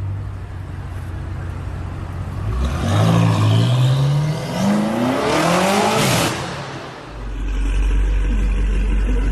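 BMW M5 F90's twin-turbo V8 idling, then accelerating hard about three seconds in with a steadily rising pitch. It is loudest around six seconds in, then falls away, and a deep steady rumble follows for the last couple of seconds.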